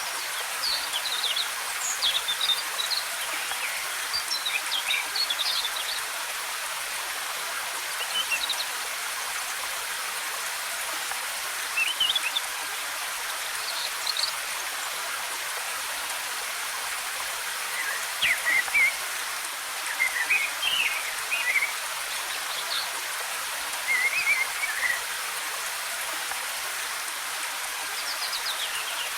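Steady rush of cascading waterfall water, with forest songbirds chirping in short high phrases on and off over it, most often in the second half.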